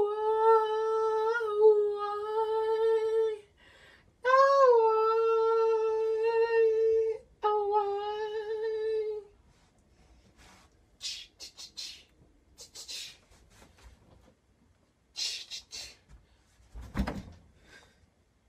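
An unaccompanied voice humming three long held notes on nearly the same pitch, each sliding up into the note at its start. Then faint rustling and a single dull thump near the end.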